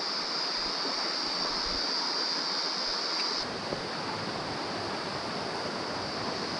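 Mountain stream water flowing over rocks: a steady rushing hiss.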